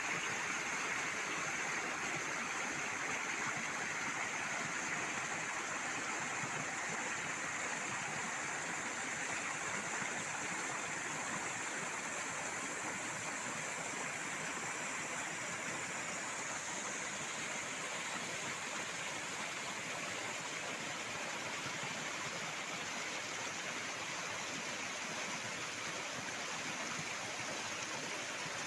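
Water pouring down a waterfall, a steady unbroken rush.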